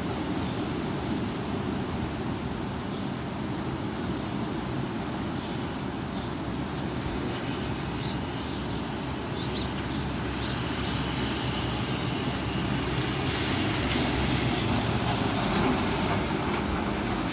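Strong wind blowing, with a steady rumble on the microphone that swells in a gust near the end.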